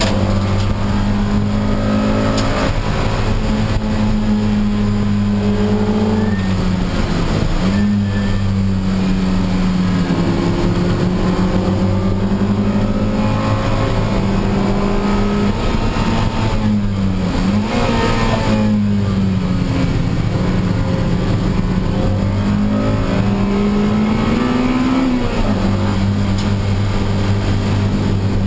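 Honda Civic Si race car engine running hard at racing speed. Its pitch climbs and drops repeatedly as it goes through the gears and brakes for corners, with a sharp fall and quick rises about six seconds in and again just past the middle.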